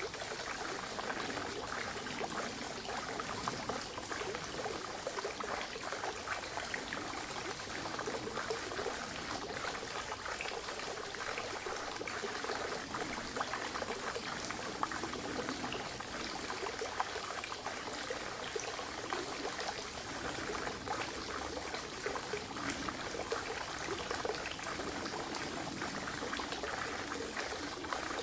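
Spring water trickling and splashing steadily into a forest pond, a continuous, even babble.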